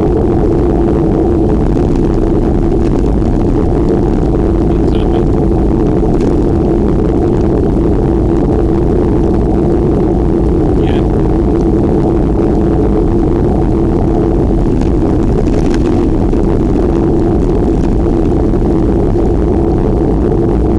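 Steady low rumble of wind buffeting a microphone carried on a moving bicycle, holding at an even level.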